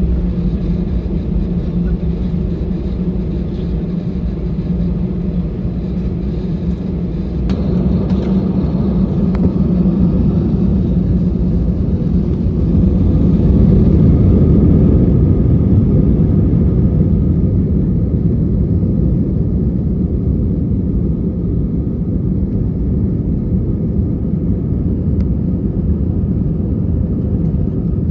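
Airbus A321 heard from inside the passenger cabin: a steady low rumble of engines and airframe. It swells from about eight seconds in to its loudest around the middle, then eases to a steadier, lighter drone.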